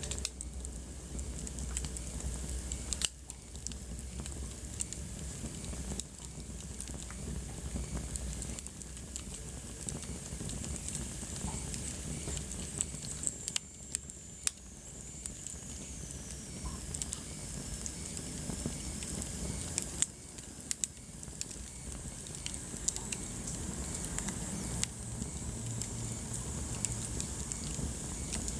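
Wood fire burning in a fireplace, crackling with irregular sharp pops over a steady low rumble of flames. A faint high whistle sinks in pitch around the middle.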